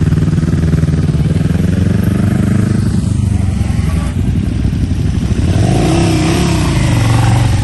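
Big sport motorcycle engines running loud, their pitch rising and falling as they rev in the second half.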